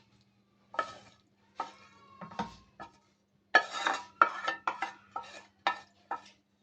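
Metal spoon knocking and scraping against a cooking pot, about a dozen sharp clinks with a short metallic ring. They are spaced out at first and come in a quick run from about halfway through.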